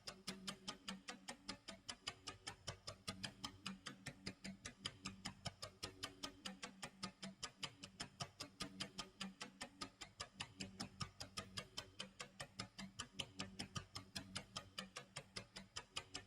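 Clock tick-tock sound effect of a countdown timer: fast, even ticking that goes on without a break, with a faint low tone beneath it.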